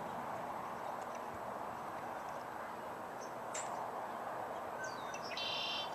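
Red-winged blackbird singing: a few short high chirps, then its buzzy trilled song near the end, over a steady background rush.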